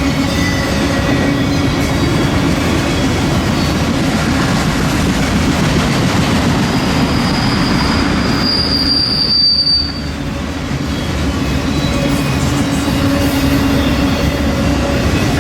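Long BNSF auto rack freight train rolling past: a steady rumble of steel wheels on rail with some clickety-clack. A high wheel squeal builds from about seven seconds in and cuts off about ten seconds in.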